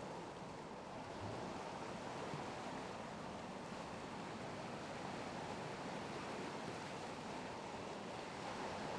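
Steady, even rushing noise of wind and sea, with no distinct events.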